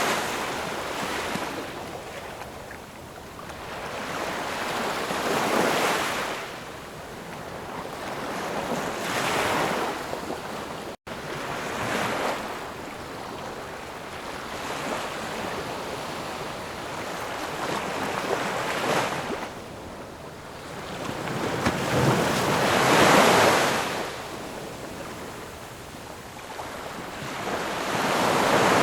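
Ocean surf: waves breaking and washing in, the hiss swelling and fading every few seconds, with the loudest swell a little past the twenty-second mark. The sound cuts out for an instant about eleven seconds in.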